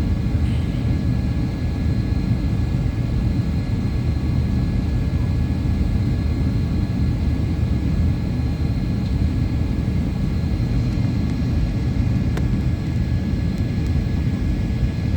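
Steady cabin noise inside a Boeing 737-800 on approach to land: a constant low rumble of airflow and CFM56 jet engines with a few thin steady whining tones over it.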